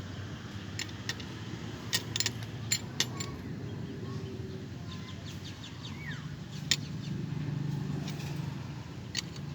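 Hand tools and metal parts clicking and clinking several times, in a quick cluster about two to three seconds in and singly later, over a steady low hum.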